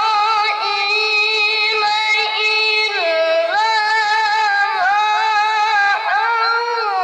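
A child qori's high voice chanting Quran recitation (tilawah) in long held notes with wavering melismatic ornaments, dipping lower about three seconds in and then climbing back up.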